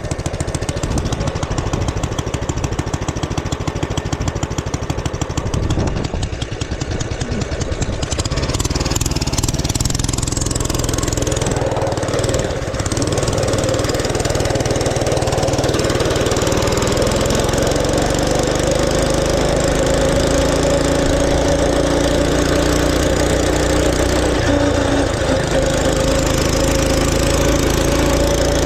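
Mini bike's small engine running. For the first several seconds it fires in quick, separate beats, then from about eight seconds in it settles into a steadier, higher running note.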